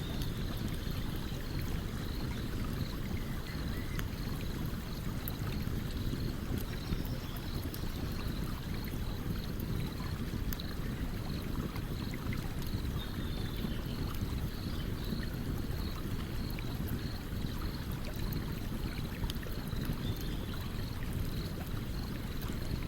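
Campfire crackling with scattered small sharp pops over the steady rushing flow of a stream.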